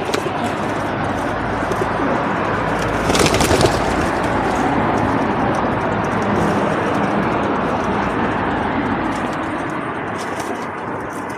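Feral pigeons cooing at a feeding table, with a louder burst of noise about three seconds in.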